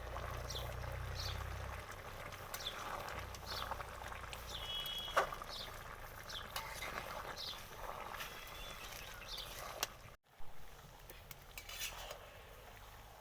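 Goose meat simmering in the water it has released in a cooking pan, with a metal spoon clinking and knocking against the pan now and then. There is a sharp knock about five seconds in, and the sound drops out briefly about ten seconds in.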